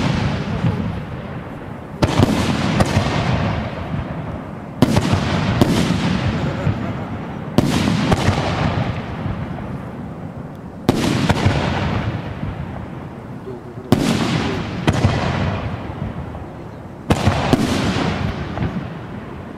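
Aerial shells from a 16-shot, 100 mm calibre PT-94 fireworks cake bursting one after another, six loud bangs about three seconds apart. Each bang trails off into a long fading rumble.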